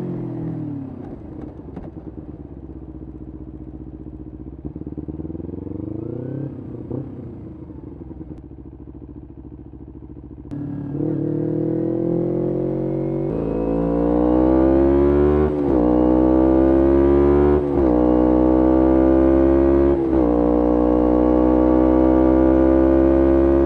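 Kawasaki Ninja 250R's parallel-twin engine through a full Graves racing exhaust, running softly at low revs with a couple of short throttle blips. About ten seconds in it opens up and accelerates hard, pulling through three upshifts, each a brief drop in the note. It then settles into a steady high-revving run.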